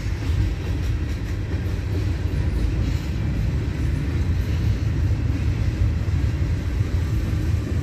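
CP freight train's tank cars and boxcars rolling past, a steady low rumble of steel wheels on the rails.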